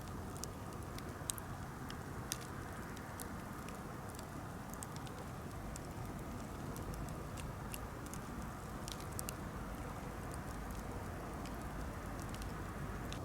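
Campfire burning: irregular sharp crackles and snaps over a steady low rush.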